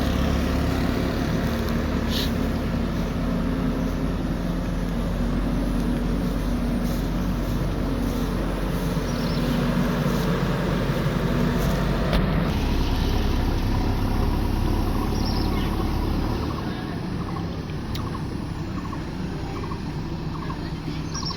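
Heavy diesel machine engine running steadily, its low hum easing off about sixteen seconds in.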